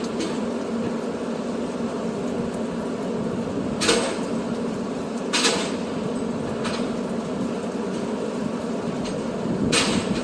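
Truck running with a steady engine hum, broken by three sharp knocks or clunks about four, five and a half, and ten seconds in.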